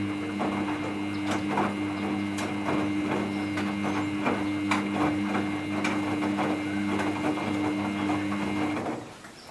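Samsung front-load washing machine turning its drum during the rinse: a steady motor hum with a higher whine and irregular clicks and knocks from the tumbling wet load. It stops abruptly about nine seconds in.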